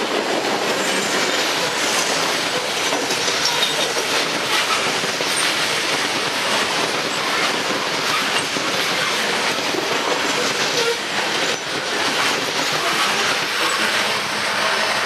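Train cars rolling past, a steady loud clatter with their wheels clicking over the rail joints.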